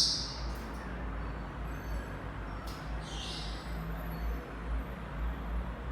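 A parrot gives a short, high-pitched call about three seconds in, over a steady low rumble.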